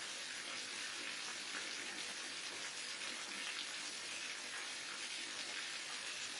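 Falling water from a waterfall, a steady, even rush and hiss with no breaks.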